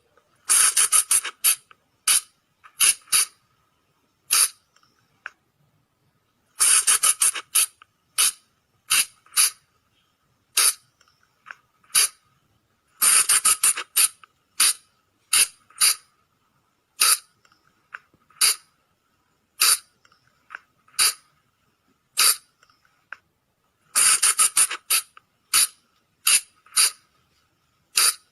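Sunda colugo (flying lemur) calls: short, sharp, high squeaks, mostly single and about a second apart, broken by quick runs of several squeaks in a row every six seconds or so. This is a lure call used to draw colugos in at night.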